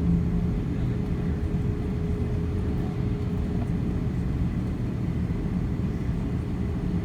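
Airliner cabin noise on the ground just after landing: the Airbus A330-300's engines and the rolling airframe make a steady low rumble with a steady hum. A stronger low drone fades out about half a second in.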